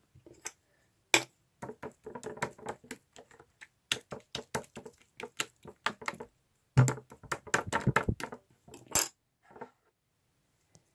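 Bubbly slime being squished and pressed by hand, giving quick runs of crackling pops and clicks as the air bubbles burst, with a short pause about six seconds in.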